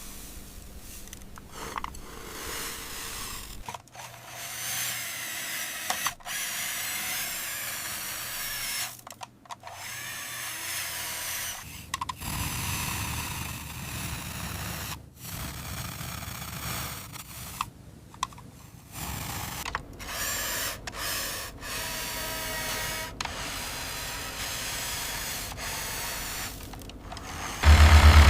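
A small motor whirring in stretches, broken off abruptly again and again. A loud low engine-like hum comes in suddenly just before the end.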